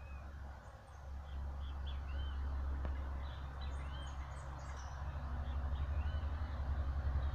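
Small birds giving short, arched chirps again and again, over a steady low rumble that grows louder and pulses in the second half.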